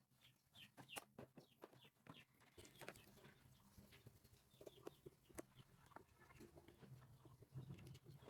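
Faint clucking of fowl among scattered small clicks and taps, over a faint low hum.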